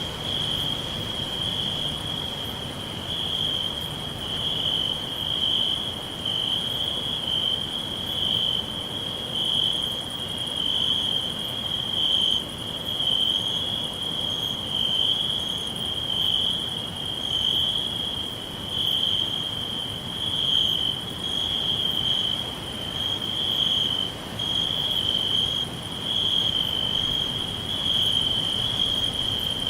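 Crickets trilling in a steady chorus: a continuous high-pitched trill that swells and fades every second or two. Fainter, short, higher chirps repeat above it.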